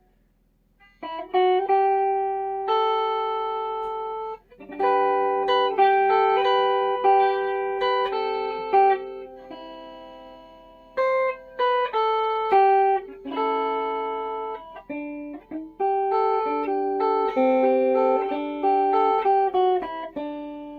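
Flight Centurion solid-body electric tenor ukulele played melodically, with single notes and two-note chords that ring on and fade slowly, showing the instrument's long sustain.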